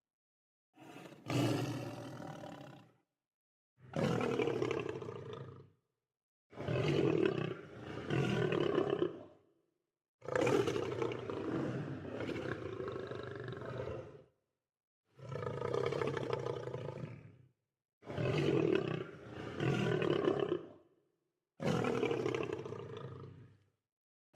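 Lion roaring repeatedly, about eight separate roars of two to four seconds each, some in two pulses, with gaps of dead silence between them.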